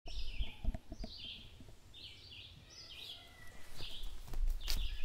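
A songbird singing short, falling phrases over and over, about one a second, over a low rumble.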